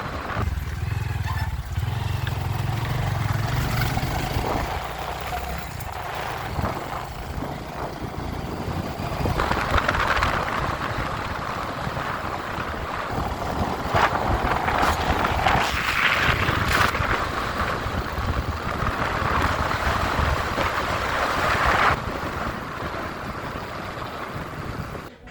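Motorcycle running on the move, engine note mixed with wind and road noise, with the engine most distinct in the first few seconds.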